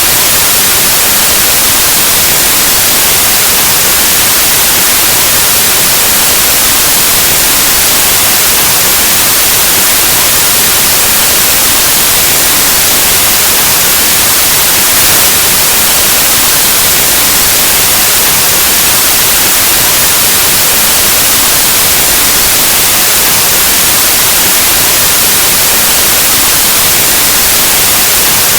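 Synthetic white noise: a loud, steady, even hiss like analog TV or radio static, unchanging throughout.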